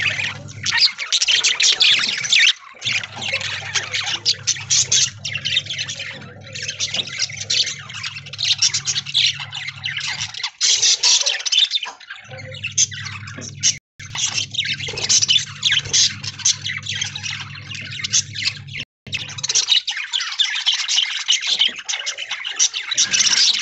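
A flock of budgerigars chattering and chirping continuously, with a steady low hum underneath that stops and starts a few times.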